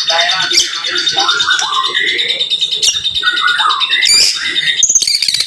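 Murai batu (white-rumped shama) singing a rapid run of short whistled phrases, notes sweeping up and down, broken by sharp clicking 'tembakan' notes several times.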